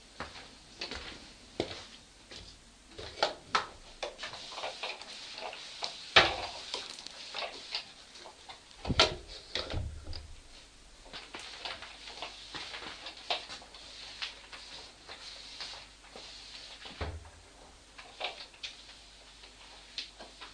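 Irregular household knocks and clicks, with two louder thumps about six and nine seconds in.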